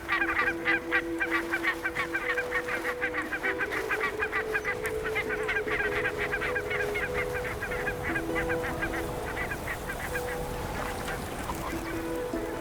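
A large flock of geese calling: a dense chorus of short, overlapping honks that thins out a little in the last few seconds.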